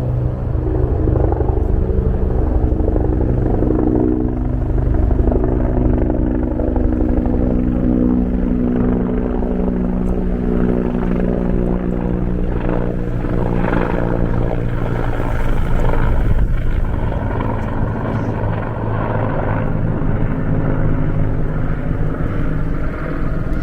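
Steady droning hum of an engine, several pitched tones that drift slowly up and down, over a heavy low rumble.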